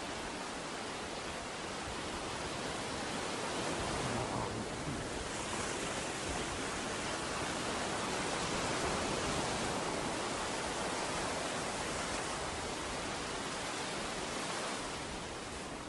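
Ocean surf washing onto a beach: a steady rush of breaking waves that swells a little about four seconds in and again near the middle.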